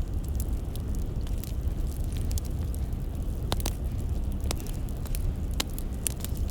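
Burning firewood crackling, with scattered sharp pops over a low steady rumble.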